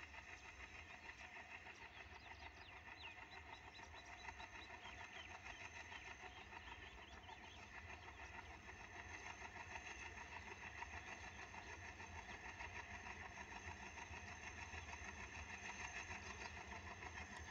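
Faint steady drone of a distant freight train's locomotive, growing slowly louder as the train approaches.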